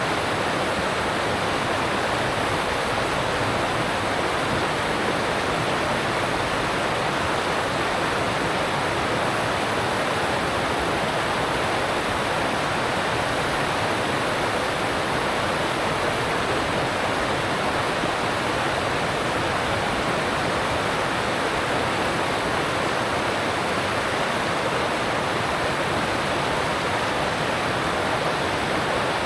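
Alpine stream rushing over rocks: a steady, even roar of water with no change.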